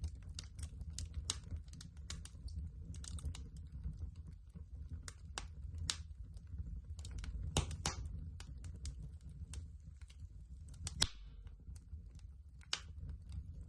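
Wood fire crackling: irregular sharp pops and snaps over a low steady rumble, with a few louder pops about two thirds of the way through.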